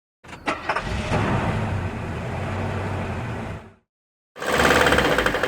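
Steyr 560 2.1-litre diesel engine in a GAZelle running with a rod knock: a worn connecting rod and rod bearing. It plays in two takes split by a short cut, the second louder, with a fast, even knocking.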